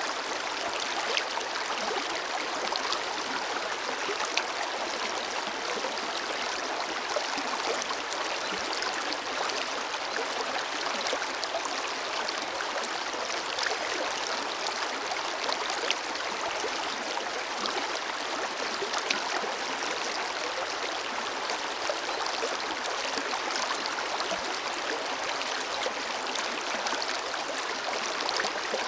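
Forest river flowing steadily over rocks, a constant rush of water with fine splashing and gurgling.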